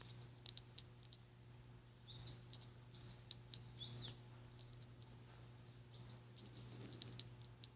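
Domestic cat chattering at birds: short, high arched chirps, each followed by a quick run of clicks, repeated in bursts about every second or two.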